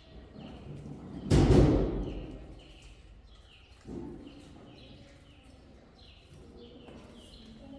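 A small bird chirping over and over, short downward calls about twice a second. About a second in comes one loud heavy thud that rings on briefly, and a softer knock follows a couple of seconds later.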